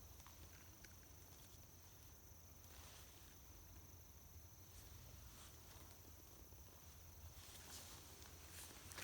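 Near silence with a faint, steady high insect trill, as of crickets, that stops about seven and a half seconds in.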